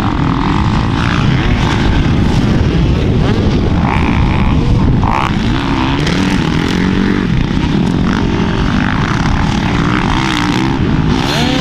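Dirt bike engine revving up and down as it is ridden, its pitch rising and falling repeatedly, over a dense low rumble.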